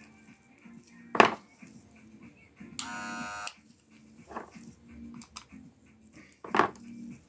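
Wahl Senior hair clipper switched on for a brief, steady buzz of under a second, a couple of seconds in, running with its restored original sound. Two sharp clicks come before and after it.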